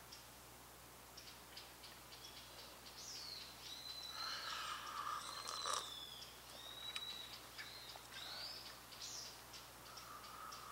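Birds calling: a run of whistled calls that rise and fall in pitch, busiest from about three seconds in until near the end. Under them are faint short ticks and crackles from a small wood fire burning in a camp stove.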